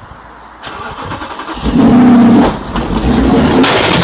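Car engine running and revving, loud and droning from about a second and a half in, with a second swell and a harsh noisy burst near the end.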